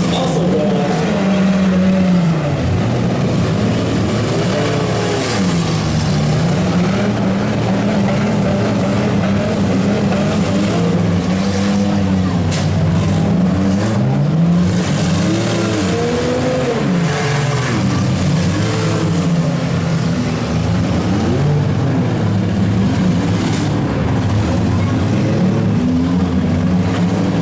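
Engines of several demolition derby vans, trucks and SUVs revving up and down at once, their pitches rising and falling over one another as they drive and ram.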